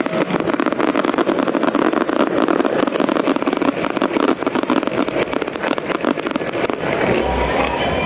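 Fireworks crackling and banging in quick, dense succession, many cracks a second.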